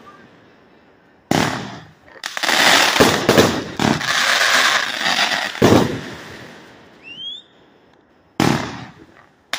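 A 100-shot firework cake firing. A loud burst comes about a second in, then a dense run of crackling bursts follows. A short rising whistle sounds about seven seconds in, and another burst comes near the end.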